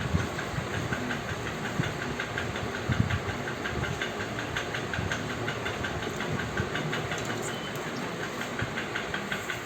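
Hands kneading stiff wheat-flour puri dough in a bowl, with irregular soft presses and thuds. Under it runs a steady machine-like whirr with a fast, even ticking.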